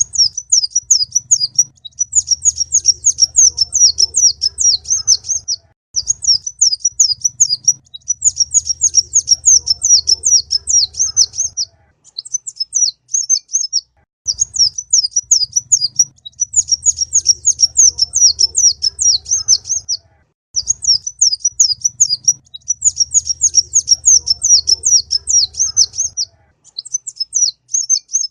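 Kolibri ninja sunbird song: fast, high-pitched twittering phrases in bouts of about four seconds with short breaks, repeating over and over as in a looped tutor recording.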